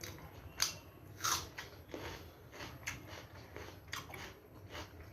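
A person biting and chewing food close to the microphone: a string of crisp crunches, the loudest one about a second in, then steady chewing crunches about every half second.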